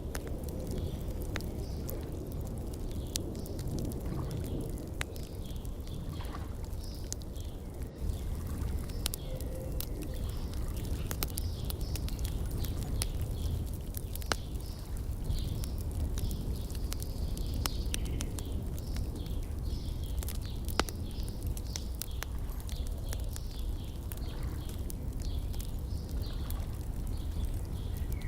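Wood fire in a firepit crackling, with many scattered sharp pops over a steady low rumble, while small birds chirp.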